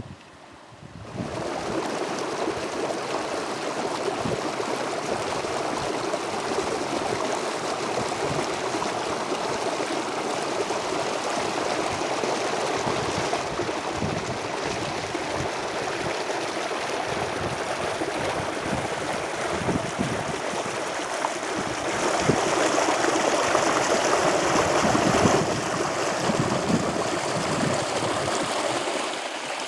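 Water flowing along an irrigation ditch, a steady rushing and gurgling that starts about a second in and swells louder for a few seconds past the two-thirds mark.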